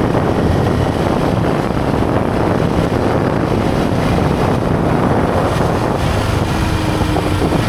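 Steady wind noise buffeting the microphone of a moving motorcycle, with the bike's engine and road noise running underneath.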